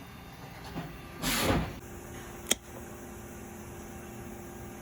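Handling sounds from disassembling an old pneumatic hot foil stamping machine: a brief rushing, hiss-like noise about a second in, then a single sharp click, over a faint steady hum.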